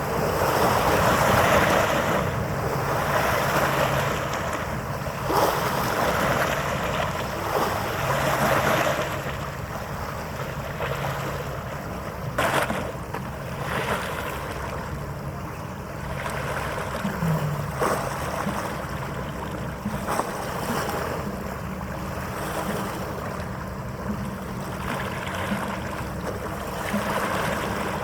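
Wind buffeting the microphone over waves washing on the harbour water, with a faint low hum that comes and goes. The wind gusts are strongest in the first part.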